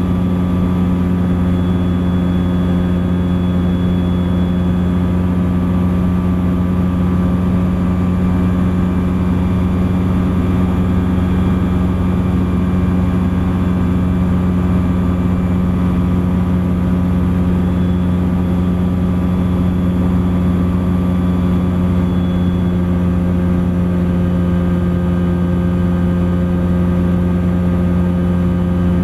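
Thruster ultralight aircraft's engine and propeller droning steadily at constant power in flight.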